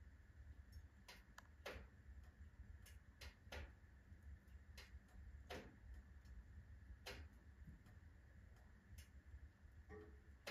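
Firewood burning in a wood stove, crackling faintly with irregular sharp pops, about one a second, over a low steady rumble of the fire.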